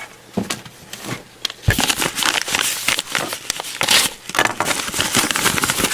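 Mail packaging crinkling and crackling in the hands as it is handled and opened: a few light clicks, then a dense, busy run of crackles starting a little under two seconds in.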